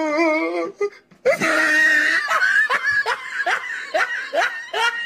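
A person laughing hard: a high wavering squeal, then a long run of quick, rhythmic laughs, about three a second.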